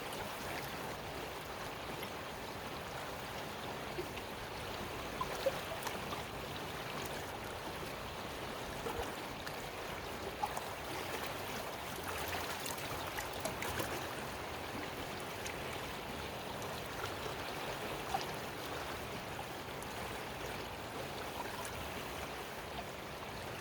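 Creek water flowing steadily, with a few small splashes and sloshes from a gold pan being worked down in the water.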